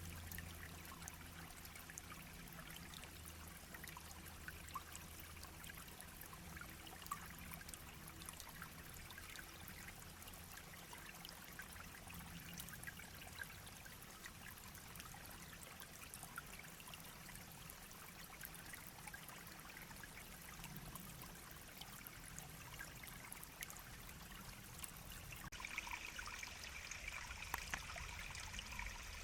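A small stream babbling and trickling steadily over stones, with many tiny droplet splashes. About 25 seconds in, a brighter, slightly louder trickle comes in.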